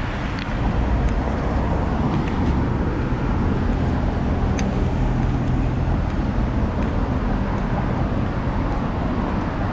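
Road traffic passing close by: a steady rumble of vehicle engines and tyres, with an engine hum standing out for a few seconds in the middle.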